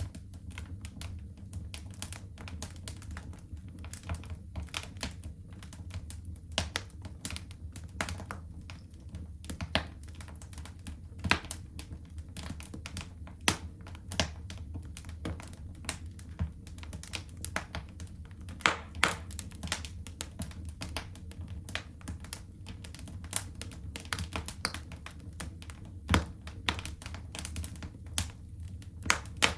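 Wood fire burning in a fireplace, crackling steadily with irregular snaps and a few louder pops, over a low steady rumble of the flames.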